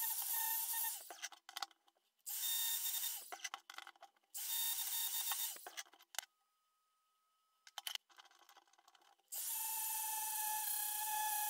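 Short bursts of hissing under pressure, each with a steady whistling tone. One burst stops about a second in, two more of a second or so follow, and after a quiet gap a longer one starts near the end.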